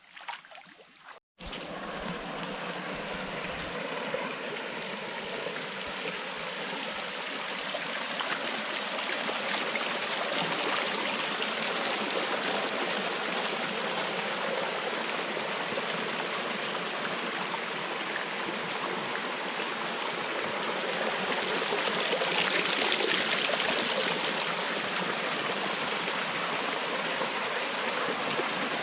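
Rushing water of a hill stream, a steady noisy flow that starts just over a second in after a brief gap and swells slowly louder toward the last third.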